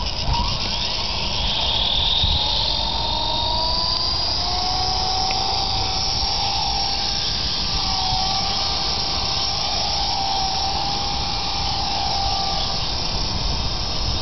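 Radio-controlled helicopter hovering: a steady motor and rotor whine whose pitch wavers slightly up and down.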